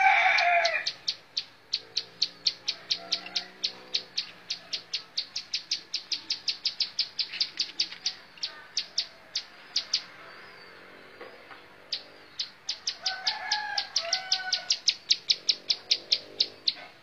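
Plain prinia (ciblek sawah) singing: a long, rapid series of sharp, repeated high notes, about four to five a second, breaking off about 10 s in and starting again about 2 s later. A rooster crows at the very start, and a shorter, similar call comes about 13 s in.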